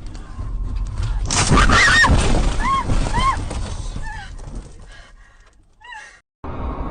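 A vehicle collision: a loud crash about a second in that fades over a few seconds, with several short high-pitched tones that rise and fall, heard over it.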